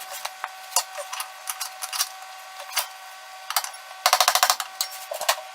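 Hand tools working on car suspension parts: scattered sharp metallic clicks and knocks, with a quick run of rapid clicking about four seconds in.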